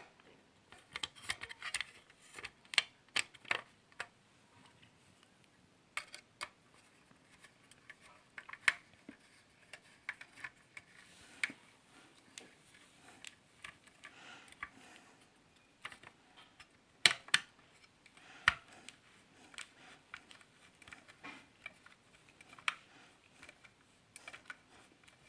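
Irregular small clicks and taps of a screwdriver and plastic parts being handled as the screws of an electric iron are tightened during reassembly.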